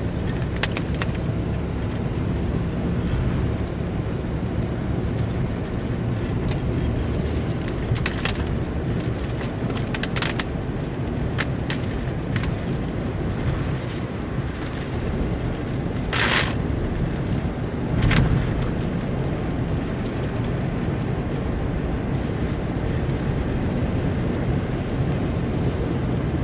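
Car driving in the rain: a steady low rumble of road and engine noise, with a few short sharp knocks or splashes, the most prominent about two-thirds of the way through.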